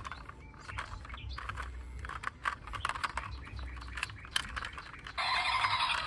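Irregular light clicks and clacks, like small hard objects being handled. About five seconds in, a louder sound with several held tones starts suddenly.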